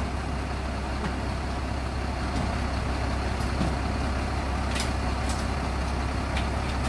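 A crane truck's heavy diesel engine running steadily with a deep hum, with a few short sharp metallic clicks about a second in and again near the end.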